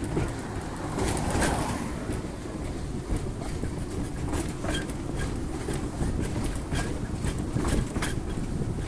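Narrow-gauge train carriages rolling along the track: a steady low rumble with irregular clacks of the wheels over the rail joints.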